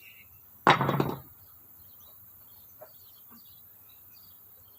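A short, loud burst of metal knocking about a second in, lasting about half a second, then a couple of faint clicks: hand-tool work on a car's front suspension.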